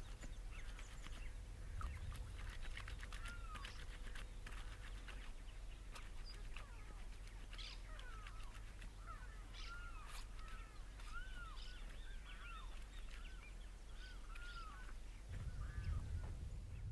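Birds calling outdoors: short arched chirps repeated many times, over a steady low rumble that grows louder near the end.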